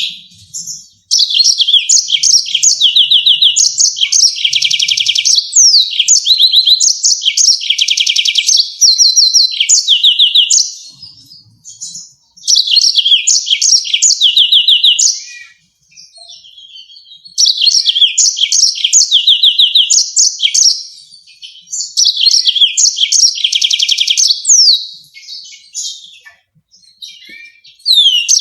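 Yellow-fronted canary singing loudly: long runs of fast trills and rapidly repeated sharp notes, with some quick down-slurred whistles. The song comes in three long bouts, starting about a second in, at about the middle, and a little past halfway, separated by short pauses.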